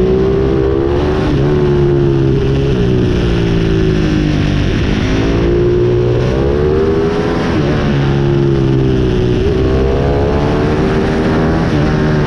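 Pit bike engine revving hard under way, its pitch climbing and then dropping again several times, as the bike accelerates and backs off or shifts gear.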